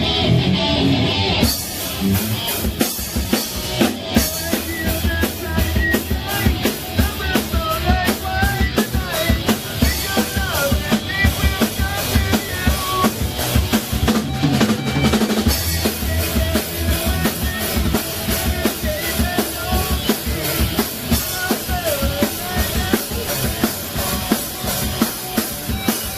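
Rock band playing live in a rehearsal room, the drum kit loudest, with steady kick and snare hits under electric guitar and bass.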